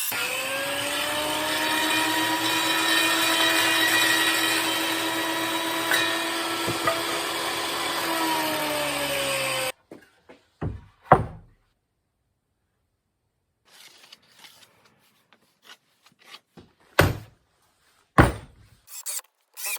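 An electric power saw runs and cuts wood for about ten seconds, its motor whine rising as it spins up and falling as it winds down. It stops abruptly, and a few separate sharp knocks follow.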